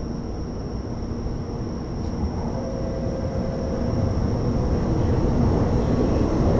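N700-series Shinkansen train running along the platform close by, a rumble that grows steadily louder, with a faint steady hum joining it about halfway through.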